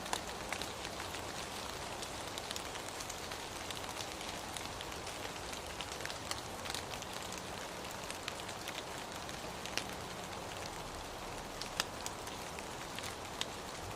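Steady rain falling, an even hiss with scattered sharper drop hits standing out now and then.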